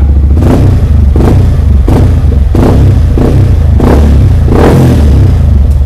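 Yamaha R15 V3's single-cylinder engine running loud through a Yoshimura full-system aftermarket exhaust, revved in repeated short throttle blips about every two-thirds of a second.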